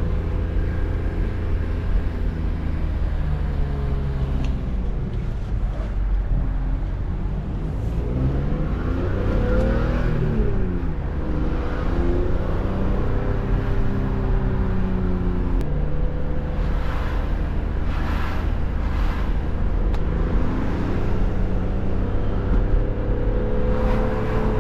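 BMW E46 M3 driving: its engine runs with the pitch rising and falling as speed changes, over a steady low road rumble.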